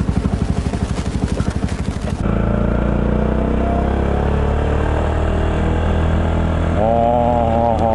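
125 cc motorcycle engine running, with fast, even pulsing strokes for about two seconds. Then, after a cut, a steady engine note under way whose pitch slowly rises as the bike gathers speed.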